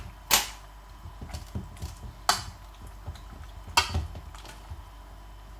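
Three sharp clacks, with lighter ticks and knocks between them, as hard kitchen objects are handled and set down.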